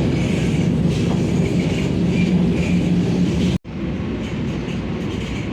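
Vande Bharat Express electric train set running at speed: a steady rumble with a low hum. It breaks off abruptly for an instant about three and a half seconds in and carries on a little quieter.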